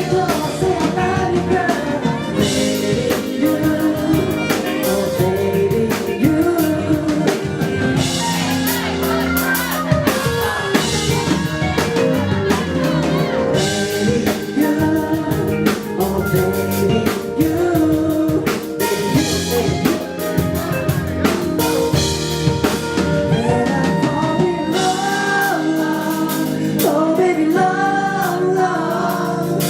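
A live pop band plays a song with drums and guitar while a singer sings the melody.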